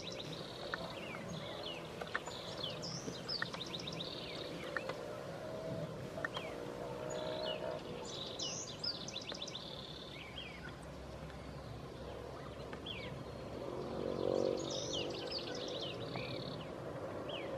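A songbird singing a repeated phrase of high chirps that ends in a fast trill, coming back about every six seconds, over a low steady hum that grows louder about fourteen seconds in.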